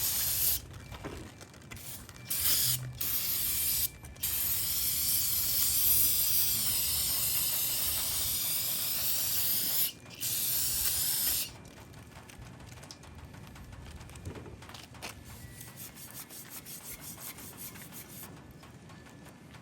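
Hissing spray on a 383 engine block being cleaned, in several bursts, the longest about six seconds; it stops about halfway through, leaving faint ticking and rubbing.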